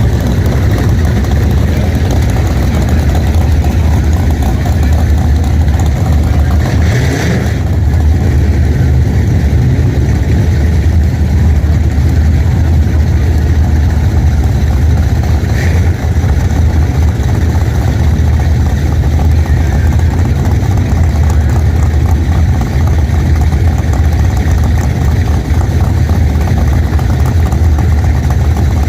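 Pontiac car's engine running steadily with a loud, even low rumble that holds without revving up or down.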